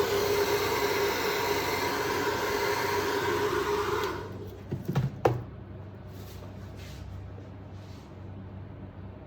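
A handheld electric blower running steadily with a motor whine, switched off about four seconds in; a few light knocks follow about a second later.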